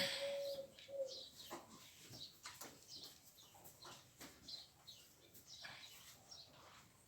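Birds chirping faintly with short high calls scattered throughout, and two short low steady notes within the first second.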